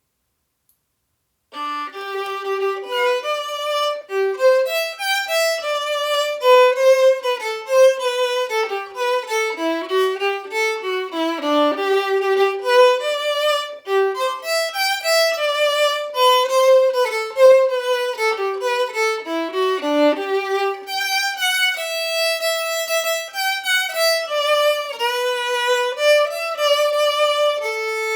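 A violin playing a melody, one note after another, starting after a second or two of silence.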